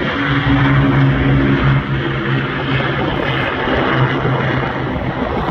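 Avro Lancaster bomber's four Rolls-Royce Merlin piston engines giving a steady, loud propeller drone in flight.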